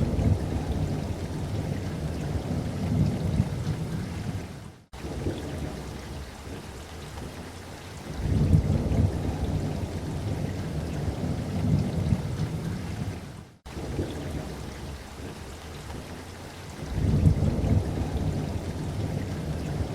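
Steady light rain with low rolling thunder that swells three times, every eight or nine seconds, each rumble lasting a few seconds. The sound cuts out for an instant twice.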